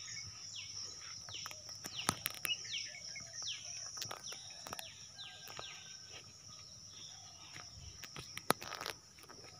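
A bird repeating a short falling call about once a second over a steady high-pitched insect drone, with a few sharp clicks.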